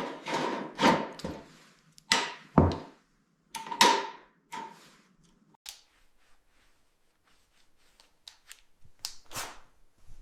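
A series of sharp knocks and clanks: several loud strikes in the first few seconds, some with a brief ringing tone, then lighter, quicker clicks and ticks, and a couple of louder knocks near the end.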